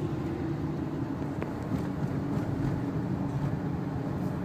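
Steady low drone of a Renault Laguna wagon's 2-litre turbo diesel and its tyres, heard from inside the cabin while driving. A faint click about a second and a half in.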